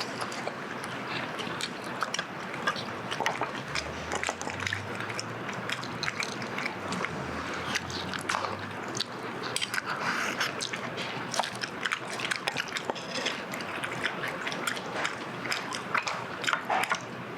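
A person chewing and eating close to the microphone: wet, moist mouth sounds with many small, irregular clicks.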